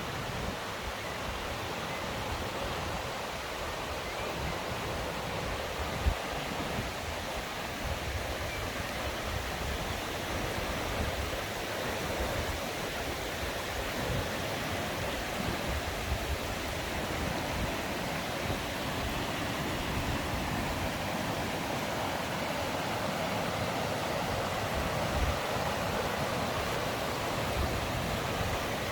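Mountain stream rushing steadily over rocks, with a single sharp knock about six seconds in.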